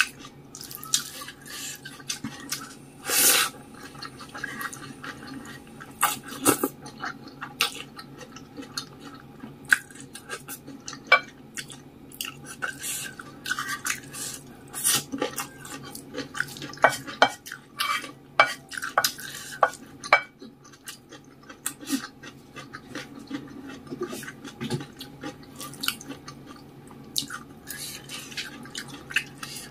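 Close-miked mukbang eating of spicy wet instant noodles with rice: cutlery clinking against a dish in short, irregular clicks, with wet slurping and chewing between them.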